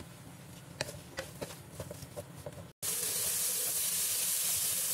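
Tempeh and green chillies sizzling in a wok after sweet soy sauce and a splash of water have gone in: a soft hiss with a few sharp pops, then, after a short break about three seconds in, a much louder steady sizzle as the mixture is stirred with a wooden spatula.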